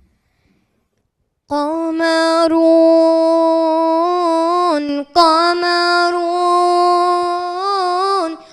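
A boy's voice singing unaccompanied, starting about a second and a half in: two long held notes with a brief break between them and a small turn near the end of the second, the drawn-out opening of an Arabic religious nasheed.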